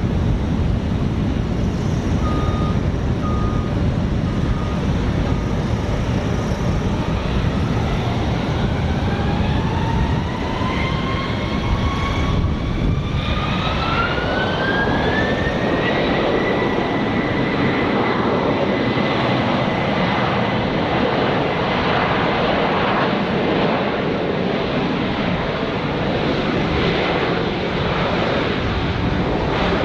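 Jet airliner engines running over a steady rumble, with a whine that rises in pitch about a third of the way in as the engines spool up, then holds at a steady high whine.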